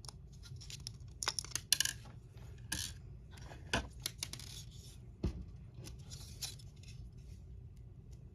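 Small parts of a model kit being handled and fitted by hand: a run of light clicks, taps and rustles, thickest about a second to two seconds in, with single sharper knocks at about four and about five seconds.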